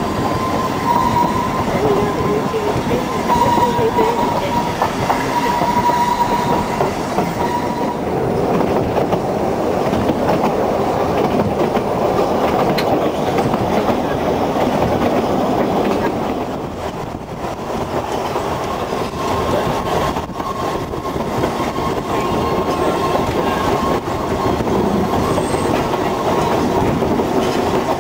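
Ffestiniog Railway narrow-gauge train running on the line, a steady rumble and clatter of wheels on rail. A thin high squeal rides over it for the first several seconds and again near the end.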